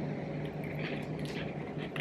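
Soft mouth sounds of a person biting and chewing a snack, a few faint crunches, over a steady low hum.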